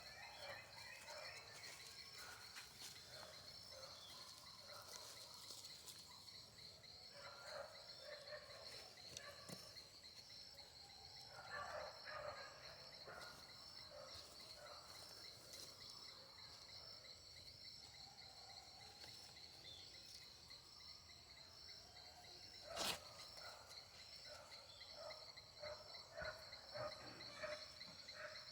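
Faint insect chorus: a steady, high, pulsing trill, with scattered short chirping calls and a single sharp click about 23 seconds in.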